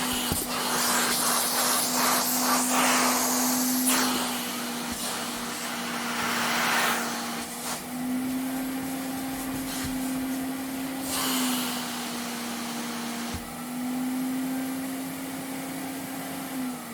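Vacuum cleaner running: a steady motor hum under rushing air that swells and fades. Near the end the motor begins to wind down, its hum falling in pitch.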